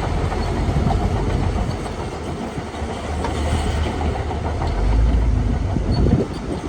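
Shantui DH17 C2 bulldozer working: a diesel engine rumble under a steady clatter of its steel tracks. The rumble swells about five seconds in.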